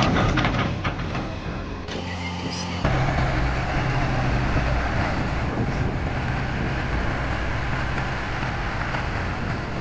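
Heavy machinery's engine running steadily under a dense wash of mechanical noise, with a low, even hum. The sound changes abruptly about two and three seconds in.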